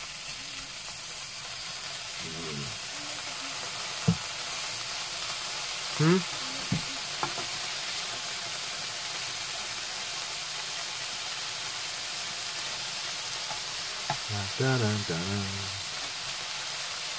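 Bacon and potatoes frying in a pan: a steady sizzle, with a sharp click about four seconds in and a few brief murmurs of a voice.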